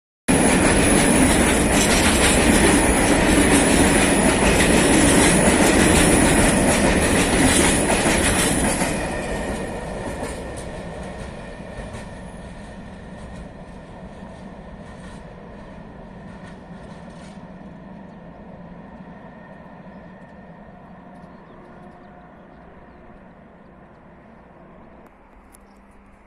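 Freight train of hopper wagons passing close by, the wheels clattering on the rails with a high steady whine over the top. About nine seconds in the sound starts to fade as the train draws away, leaving a faint rumble.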